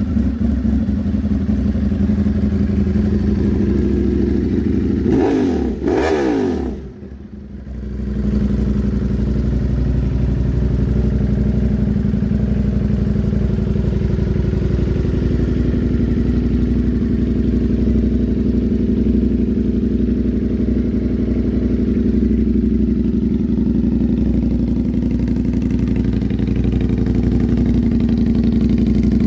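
Ducati Streetfighter V4's 1,103 cc V4 engine running steadily, revved up twice in quick succession about five to six seconds in, then dropping off briefly before settling back into a steady run.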